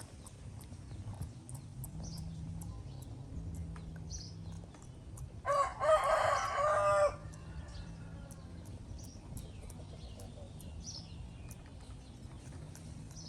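A single long animal call in two parts, about a second and a half long, about halfway through, over a low steady background hum.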